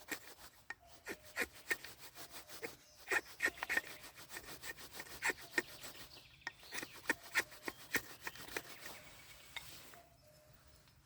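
A hand tool working dry wood: a run of short, irregular scraping strokes with two brief pauses, stopping about ten seconds in.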